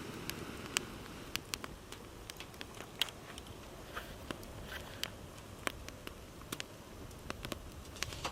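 Wood campfire crackling, with irregular sharp pops and snaps, about two a second, over a low steady rumble.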